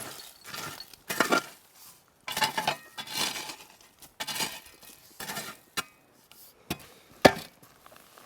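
Cutlery scraping and clinking against a plate during a meal, in a run of short, uneven strokes, with one sharp, loud clink near the end.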